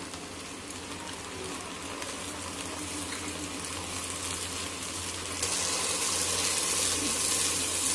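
Tomato purée sizzling in hot oil with fried ginger-garlic paste as it is poured in and stirred with a spatula; the sizzle turns louder and brighter a little after five seconds in.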